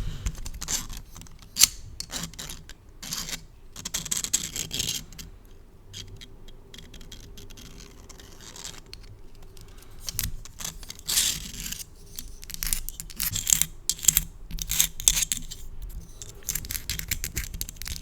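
Long acrylic nails tapping and scratching on a plastic spiral fidget toy, close to the microphone: quick irregular clicks and short scrapes, sparser for a few seconds in the middle and busier in the second half.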